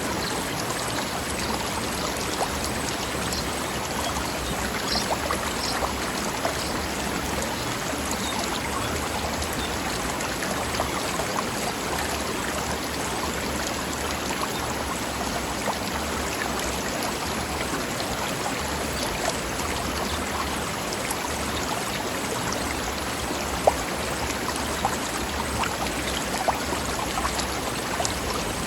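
Forest stream running over rocks: a steady babble and rush of water, with one brief sharper tick a little past three-quarters of the way through.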